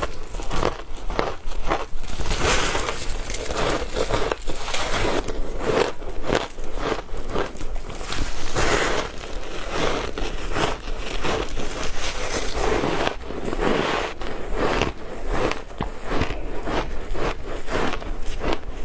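Close-miked biting and chewing of powdery, matcha-dusted ice: a continuous run of soft, crackly crunches, several a second.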